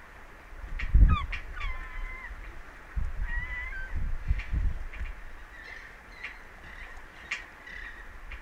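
Birds calling: a few short honking calls, one falling then holding level, about a second in, again around three seconds, and in a run from about five and a half seconds. Low rumbling thumps sit underneath, the loudest about a second in, with faint short clicks throughout.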